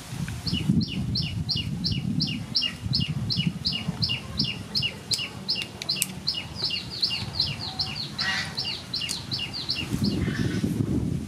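A bird calling a long, even series of short falling notes, about four a second, stopping near the end, over a low, uneven rumble.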